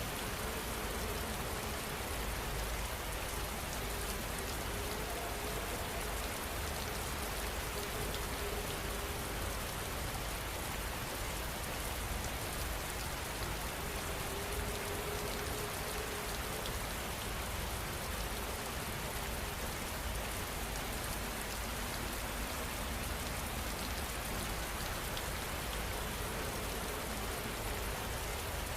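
Steady heavy rain falling, an even, unbroken hiss of drops with a low rumble underneath.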